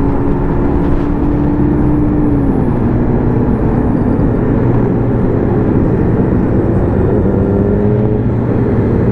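Motorcycle engine heard while riding, under steady wind and road rush. The engine note holds, drops about two and a half seconds in as the throttle eases, then climbs again over the last couple of seconds as it accelerates.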